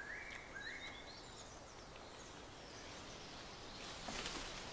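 Quiet mountain forest ambience: a bird gives two short rising notes in the first half second, then a few faint high chirps. A brief rustling hiss comes about four seconds in.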